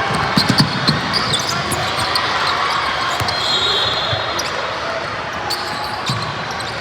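Basketball game sounds in a gym: a ball bouncing on the floor a few times, with a high squeak about three seconds in and scattered sharp clicks, over a steady background of distant voices.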